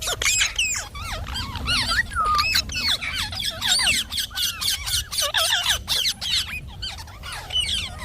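Indian ringneck parakeet chattering: rapid, overlapping squawks and chirps that swoop up and down in pitch without a break.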